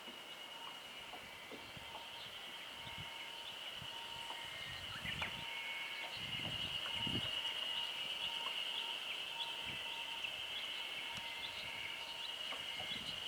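Steady, high-pitched chorus of calling animals, with a fainter lower tone beneath it and a few soft knocks and rustles in the middle.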